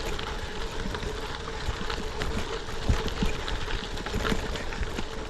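A gravel bike rolling on a rough gravel road: steady tyre noise on dirt and stones, with scattered small rattles and knocks from the bike.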